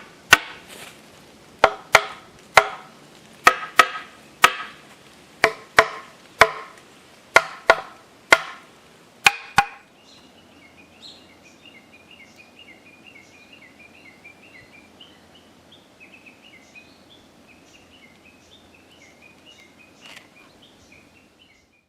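A hammer striking shiitake mushroom logs, about fifteen sharp knocks in quick groups of two or three, each ringing briefly; the logs are being knocked after rain to stimulate them to fruit. The knocking stops about ten seconds in, leaving faint high chirping.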